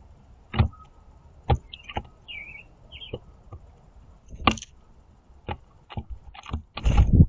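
Blue jays hopping and pecking seed on a platform bird feeder: irregular sharp taps and knocks, with a few quiet squeaky calls about two to three seconds in and a louder scuffle near the end.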